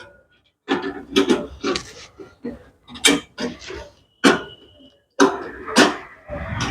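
Irregular clicks, clinks and knocks of hand tools and metal parts being handled on a hybrid battery pack being reassembled, with one brief ringing note about four seconds in.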